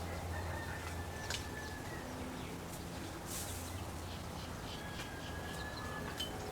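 Backyard ambience with birds calling, over a steady low hum, with a couple of sharp clicks or knocks.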